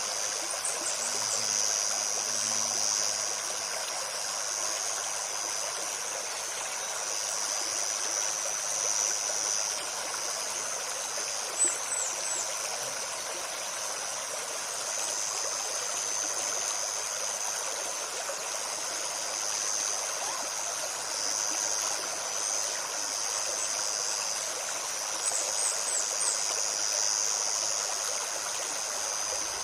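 Forest stream babbling steadily, with a continuous high insect buzz over it and short high bird chirps three times.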